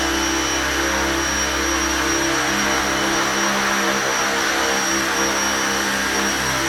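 Big helicopter flying indoors: a loud, steady rotor and engine noise with a high whine held throughout.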